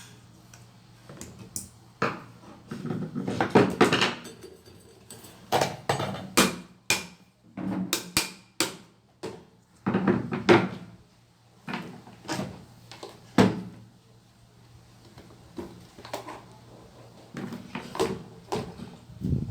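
Parts of an Arno Tufão electric fan being handled and fitted together during reassembly: irregular knocks, clicks and clunks. They are busiest through the first two thirds and again near the end, over a faint steady low hum.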